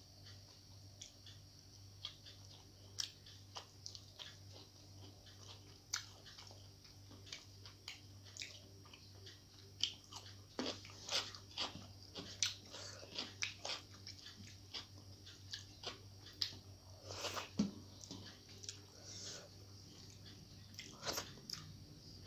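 Close-miked chewing and lip smacks of a person eating rice and omelette by hand: irregular short, sharp clicks, with light scrapes of fingers gathering food on a metal plate.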